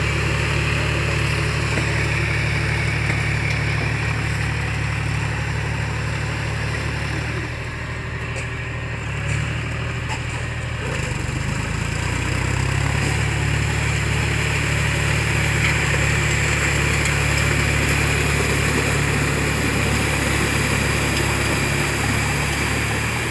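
Tractor engine running steadily. Its note eases and shifts for a few seconds near the middle, then settles back to the same steady running.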